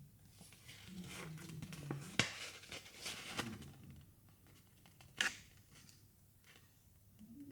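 Small plastic toy pieces and wrapping being handled: light rustling and crinkling with scattered sharp plastic clicks, two louder clicks about two seconds in and about five seconds in.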